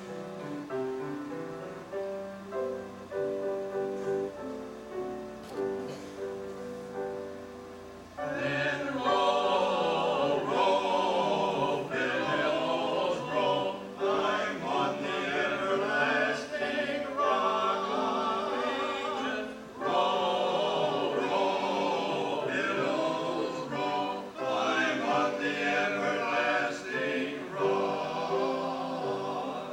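Piano playing an introduction of held chords, then a choir comes in singing with piano accompaniment about eight seconds in, the voices with a wide vibrato.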